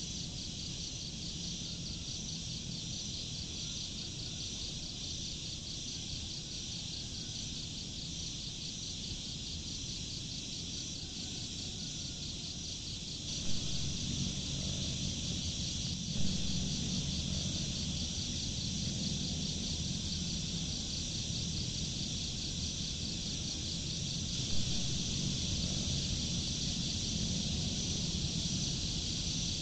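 A steady chorus of insects trilling in a high, fast pulsing pattern, over a low rumble that grows louder about halfway through. A few brief knocks stand out, two close together midway and one later.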